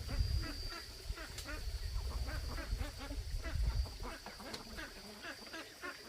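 A chorus of animals giving short, quickly repeated calls, several a second, over a steady high tone, with a low rumble during the first four seconds.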